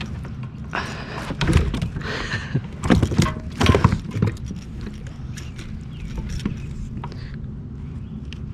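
Knocks and clattering against a kayak as a freshly caught pike is handled and unhooked, loudest in a cluster from about one to four seconds in, over a steady low rumble.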